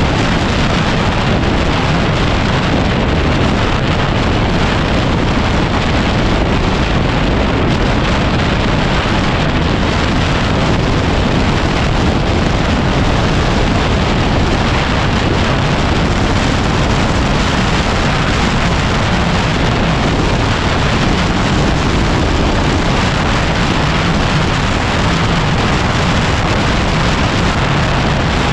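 Heavy wind noise buffeting the microphone while riding, over the steady running of a Yamaha WR250R's single-cylinder four-stroke engine.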